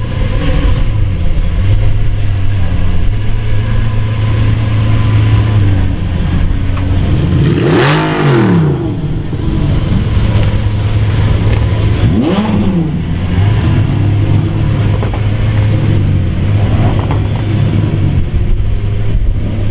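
Lamborghini Aventador's V12 idling steadily, blipped twice: a sharp rev that climbs and falls back about eight seconds in, and a smaller one about twelve seconds in.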